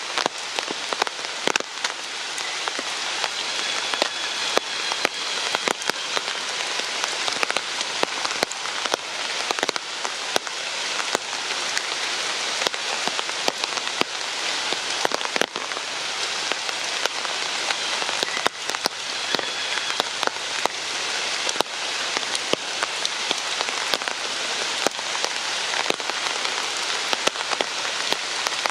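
Steady rain falling, with many close drops ticking sharply on nearby surfaces.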